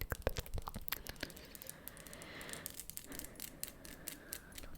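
Close-miked ASMR trigger sounds: a quick run of sharp clicks, then a soft crinkly rustle lasting a few seconds, then clicks again near the end.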